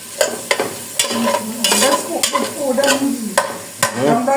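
A spoon stirring and scraping in a pot of sizzling food, with several sharp clicks of the spoon against the pot.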